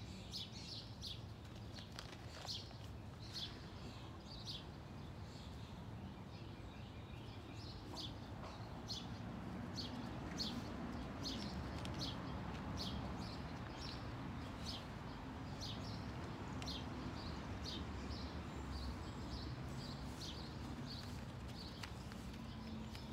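A small bird chirping over and over, short high chirps coming about one to two times a second, over a steady low outdoor rush that grows a little louder about a third of the way in.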